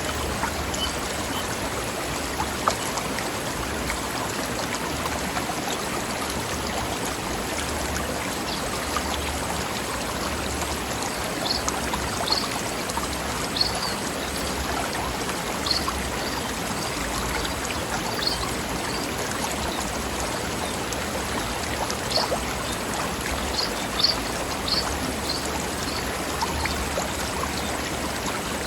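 Mountain stream flowing over mossy rocks: a steady, even rushing babble of water. A scatter of short high-pitched notes sounds over it in the middle and later part.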